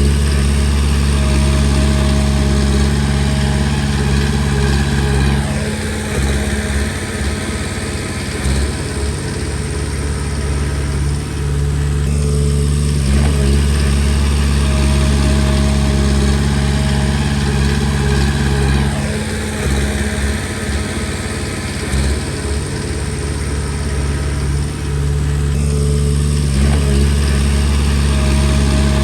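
Komatsu D20P crawler bulldozer's diesel engine running without a break. Its note changes in a repeating cycle about every six or seven seconds, alternating between a smooth steady run and rougher, noisier stretches under load.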